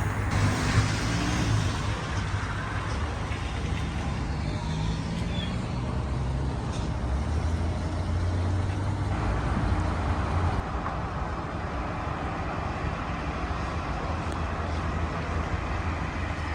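A motor vehicle driving: a steady low engine hum that shifts in pitch, under constant road and tyre noise.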